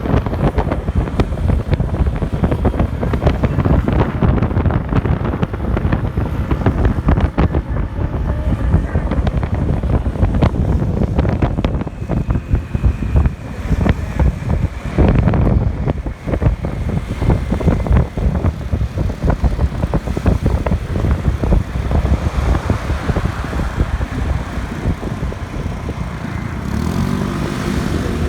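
Motorcycle on the move, with heavy wind buffeting the microphone over the engine's low running. Near the end the buffeting eases and the engine's steady hum comes through more clearly.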